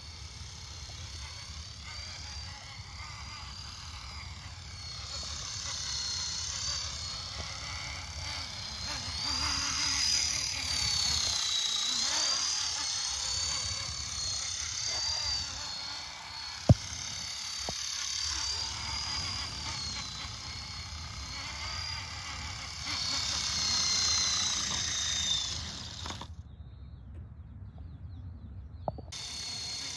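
Electric radio-controlled helicopter (Hitec SOLO PRO 228) flying: a high motor and rotor whine that wavers up and down in pitch and swells louder and softer as it manoeuvres. A single sharp click about halfway through is the loudest moment, and the whine drops away for a couple of seconds near the end.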